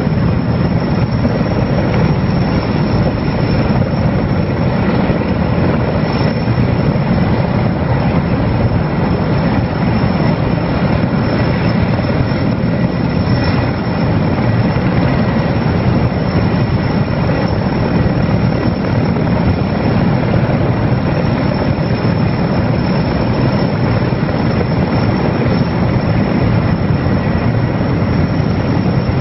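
Erickson Air-Crane (Sikorsky S-64 Skycrane) heavy-lift helicopter running steadily and loud, with rotor chop and turbine engine noise that holds even throughout.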